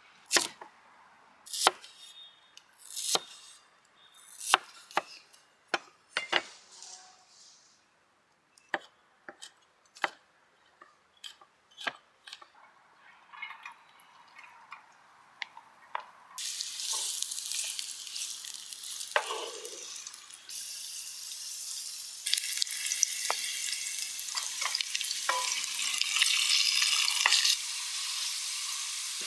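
Scattered sharp clicks and knocks of cooking utensils, then, about halfway through, a sudden sizzle as food goes into hot oil in a pan. The sizzling runs on steadily and grows louder later on.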